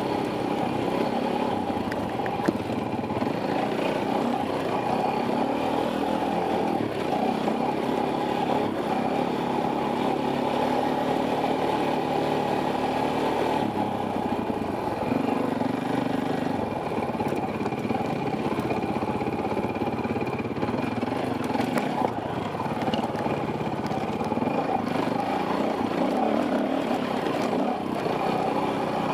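Four-stroke enduro dirt bike engine, a KTM 400, being ridden along a rough trail, its note rising and falling with the throttle, heard from a helmet-mounted camera.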